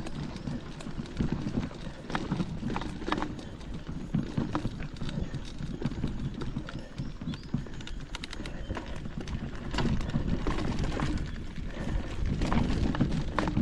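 Footsteps of a hiker walking down a forest trail, an uneven run of steps over a low rumble of handling and wind on the microphone.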